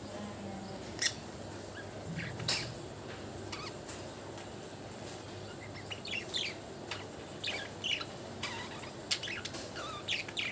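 Pet budgerigars chirping in short, sharp calls, a few at first and then more often in the second half.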